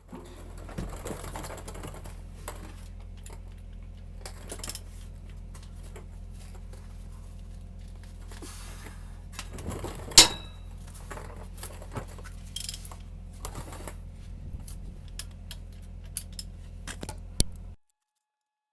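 Hand ratchet and socket clicking in irregular runs as 13 mm 12-point driveshaft bolts are worked loose, with a loud metallic clink of a tool about ten seconds in. A steady low hum runs underneath.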